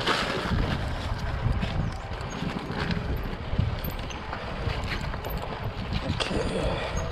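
Honda CRF300L dirt bike going over rough trail: an uneven rumble with irregular knocks and rattles, and wind on the microphone.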